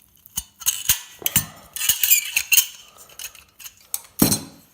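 Metal parts of an old light fitting clinking and knocking together as they are worked apart by hand and with tools, a rapid run of sharp metallic clinks with one heavier knock near the end.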